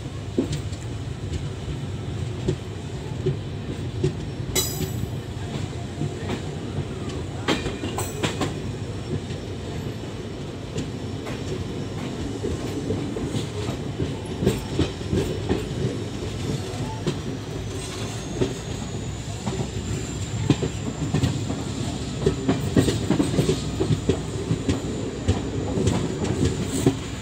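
Passenger coach running at speed: a steady rumble with the wheels clattering over rail joints and scattered sharp clicks. A faint thin high whine comes in about two-thirds of the way through.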